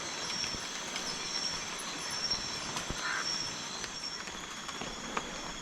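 Steady high-pitched insect chorus of the tropical rainforest, several tones held together, with a few light clicks.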